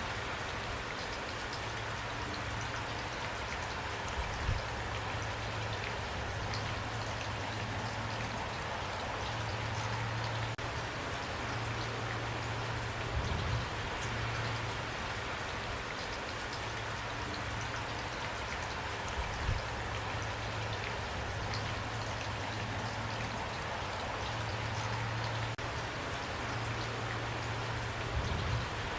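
Steady rain: an even hiss with scattered sharper drop hits, and a steady low rumble beneath. A few brief low thuds come at irregular intervals.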